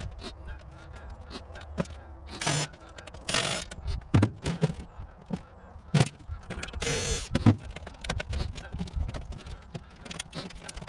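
Irregular knocks and clatter of objects being handled, with a few longer scraping or rustling noises, over a low steady rumble.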